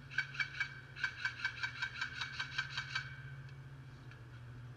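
Airsoft rifle firing rapid semi-automatic shots: three quick shots, then about eleven more at roughly five a second, stopping about three seconds in.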